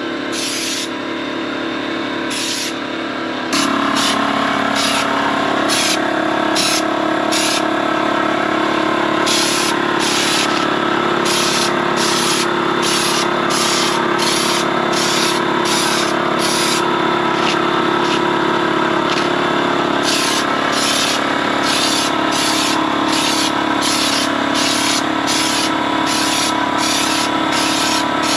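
Spray gun shooting Raptor bed liner in many short hissing bursts, over the steady hum of a running machine, likely the air compressor, which gets louder about three and a half seconds in.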